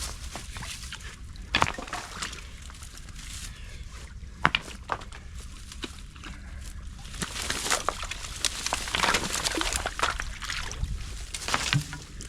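Creek water sloshing and splashing as a rock-and-stick beaver dam is pulled apart by hand, with a few sharp knocks in the first half. The splashing gets louder and busier about halfway through.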